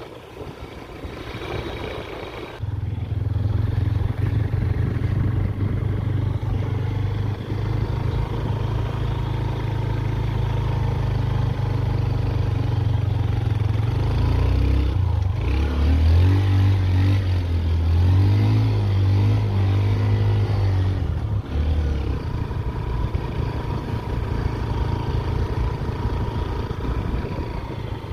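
Motorcycle engine running under way, a steady low note, rising and falling in pitch for a stretch about halfway through as the throttle changes.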